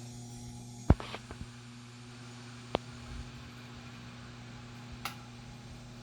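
Vintage Knapp & Monarch 10-inch table fan running on its low speed: a steady electric motor hum. Three sharp clicks come about a second in, near the middle and near the end, a clicking noise the owner can't place.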